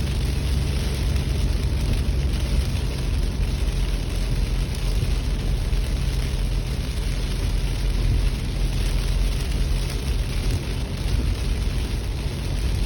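Steady vehicle road noise: a low rumble with an even hiss over it, unchanging throughout.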